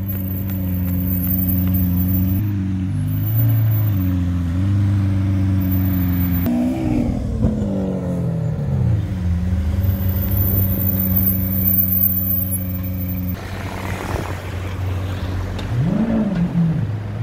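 Lamborghini Aventador's V12 idling with a steady low hum as it creeps along in traffic. About seven seconds in the pitch sweeps down, and near the end there is a short rev blip that rises and falls back.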